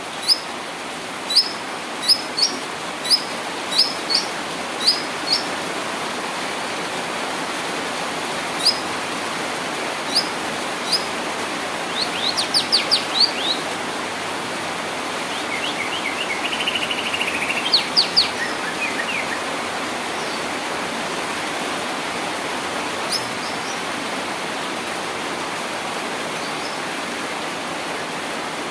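White-rumped shama calling in short bursts. First comes a run of sharp high notes about every half second, then scattered notes, a quick flurry, a buzzy trill and a few loud notes, before it falls mostly quiet. A steady hiss runs underneath.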